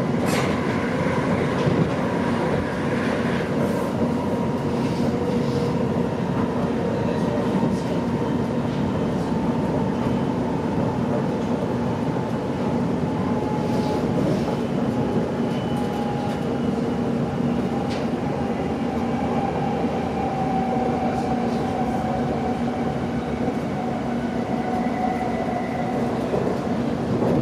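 Passenger train running on the rails, heard from inside the carriage: a steady rumble with a whine that falls slowly in pitch as the train starts to slow, and a few sharp clicks from the wheels.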